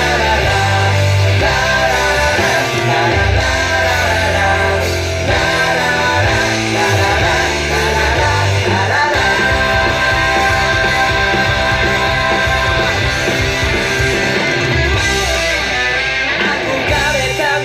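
Rock music with guitar and a heavy bass line, an instrumental stretch between sung verses with no clear vocal line.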